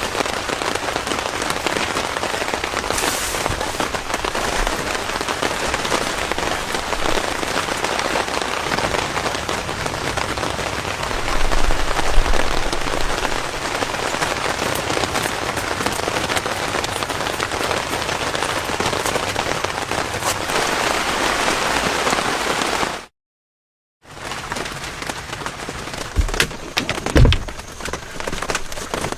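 Heavy rain falling steadily as a dense crackling patter, with a low rumble about eleven seconds in. It breaks off into a second of dead silence about two-thirds through, then returns more thinly with a few low thumps near the end.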